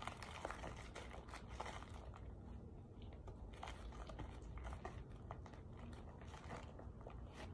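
Faint crunching and chewing of compressed cornstarch chunks, a dense run of small crisp crackles.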